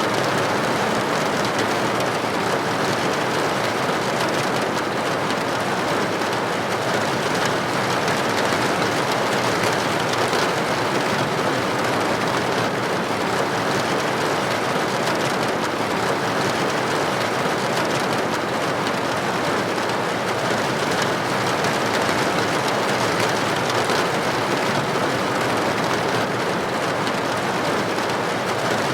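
Steady rain falling against a building window, an even, unbroken rush of water noise.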